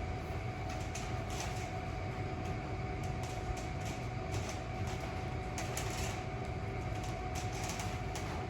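Steady mechanical hum with a low rumble and a thin constant whine, with scattered small clicks and rustles over it.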